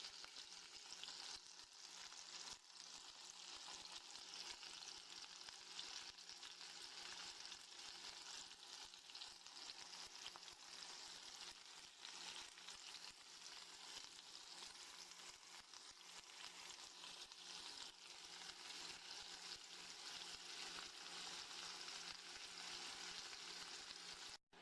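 Seasoned chicken breast strips frying in olive oil in a hot skillet: a steady sizzle full of fine crackles.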